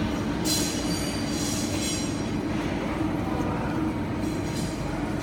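Mini CNC machining center running a tapping cycle: a steady machine hum with a high spindle whine that comes and goes in short bursts, about three times.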